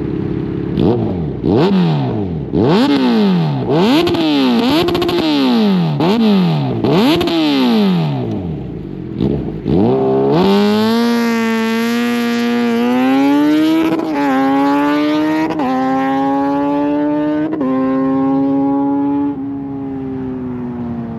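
Kawasaki Z900 inline-four through an aftermarket exhaust with its baffle missing: about six quick throttle blips at a standstill, then it pulls away and accelerates hard, its pitch climbing and dropping with three upshifts before the note eases off and gets quieter.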